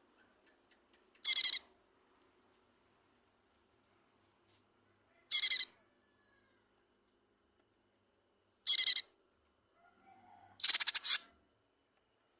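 Cucak ijo mini (lesser green leafbird) calling: four short, high-pitched bursts of rapid notes a few seconds apart, the last a little longer.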